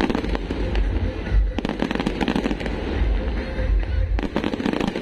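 New Year aerial fireworks bursting in quick succession: deep booms under a dense run of sharp crackling reports.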